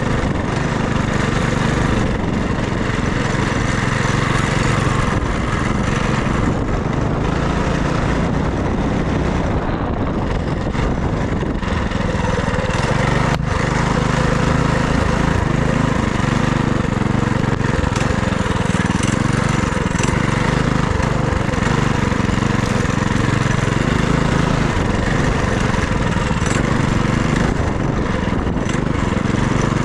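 FRP GMB100 minibike's small single-cylinder four-stroke engine running steadily under way, with a broad rushing noise over it.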